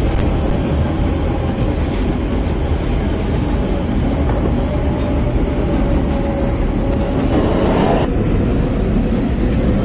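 Subway train running between stations, heard from inside the car: a steady rumble of wheels on the track with a faint steady whine, and a short burst of hiss about seven and a half seconds in.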